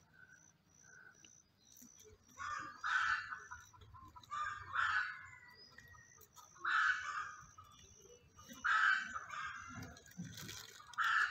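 Harsh cawing bird calls, about five of them roughly two seconds apart, with a few faint high chirps from a small bird in the first few seconds.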